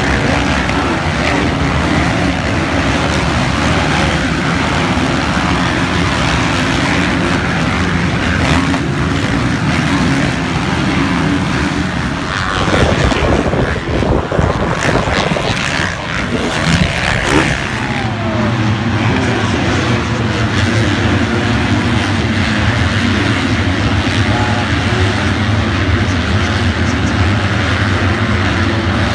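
A steady engine drone at a near-constant pitch, broken about halfway through by several seconds of louder, rougher irregular noise before the drone settles back.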